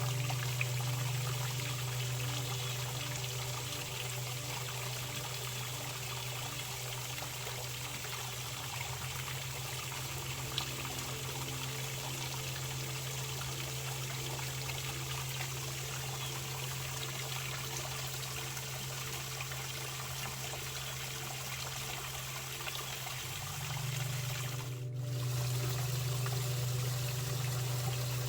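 Running water trickling and pouring steadily, over a steady low hum.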